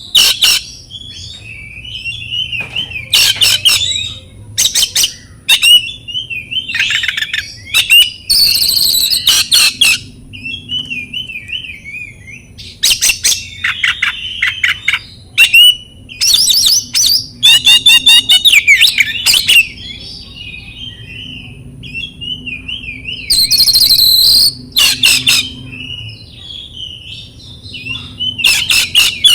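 Oriental magpie-robin (kacer) singing: loud bursts of rapid repeated notes alternating with softer warbling phrases.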